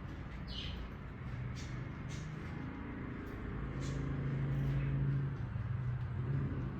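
Pet parakeet giving short, high chirps about once a second over a steady low hum, which swells and is loudest about four to five seconds in.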